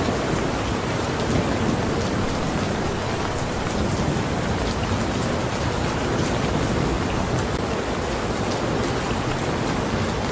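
Steady, heavy rainfall, with the sharp ticks of individual drops striking close by through the even hiss.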